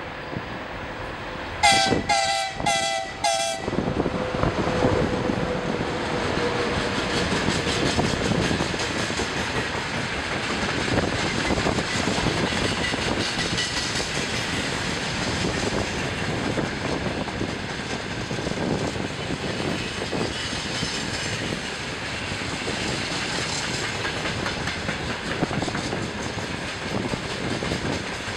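VL80t electric locomotive sounding four short horn blasts about two seconds in, followed by a long freight train of loaded gondola and hopper wagons rolling past, wheels clattering steadily over the rails.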